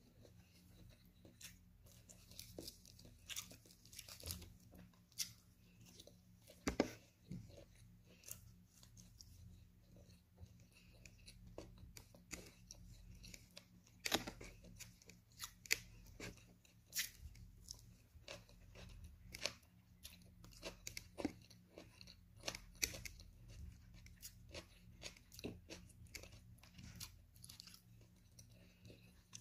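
Faint chewing and wet mouth clicks of a person eating grilled chicken and boiled potato by hand. Sharper clicks are scattered throughout, the loudest about seven and fourteen seconds in.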